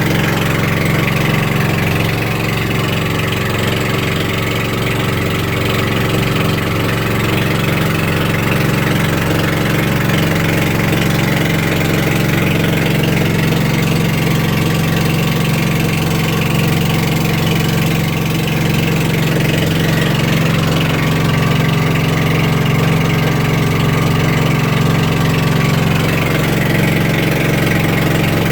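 Boat engine running steadily at a constant speed, a loud, even low hum with no changes.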